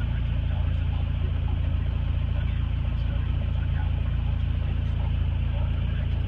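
Toyota 22R-TE turbocharged 2.4-litre four-cylinder engine running steadily with a low, even drone and no change in revs.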